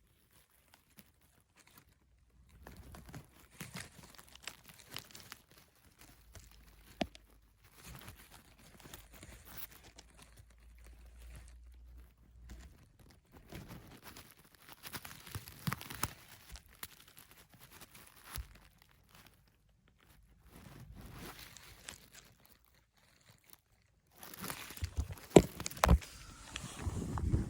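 Rustling, scraping and scattered clicks as a phone is pushed and angled into a nest cavity, hands and phone rubbing against the cavity's sides and surrounding growth, with short quiet gaps. It grows louder near the end.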